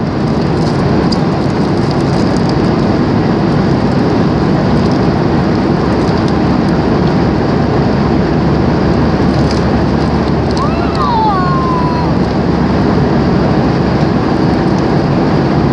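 Steady loud noise of a passenger airliner heard from inside the cabin: engine and airflow noise.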